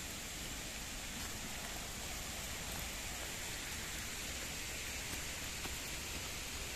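Steady rush of flowing water from a forest stream, an even hiss with no letup, with a few faint ticks.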